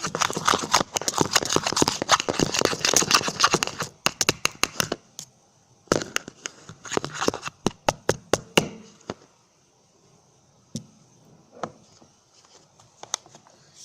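Fork stirring a sticky glue-and-soap slime mixture in a bowl: rapid clicking and crackling for about four seconds, more bursts of clicks a couple of seconds later, then only scattered taps.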